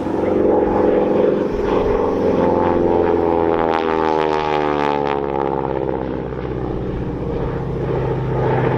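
North American Harvard trainer's nine-cylinder radial engine and propeller passing by in a flyby, its pitch dropping as it goes past, with a rasping edge at its nearest point about four seconds in.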